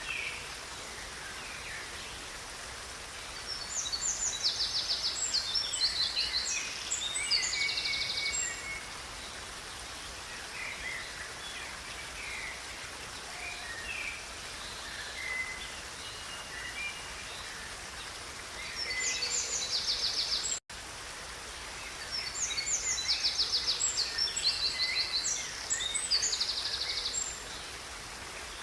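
Songbird singing bouts of rapid, high trills, once about four seconds in and again from about nineteen seconds, over the steady rush of a river. The sound cuts out for an instant about twenty seconds in.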